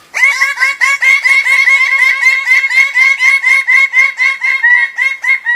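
An animal calling in a fast, steady run of short laugh-like notes, about four to five a second, that starts just after the beginning and breaks off near the end.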